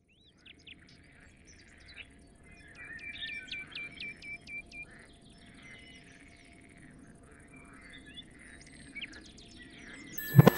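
Birds chirping, with a quick run of short descending whistled notes from about three to five seconds in. A sudden loud hit comes just before the end.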